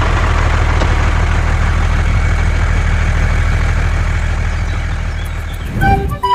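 Truck engine idling steadily, dropping away shortly before music starts near the end.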